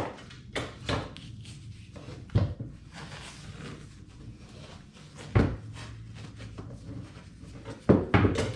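Knocks and clunks of muffler parts and packing being handled during a motorcycle muffler repack, several scattered strikes with a few close together near the end.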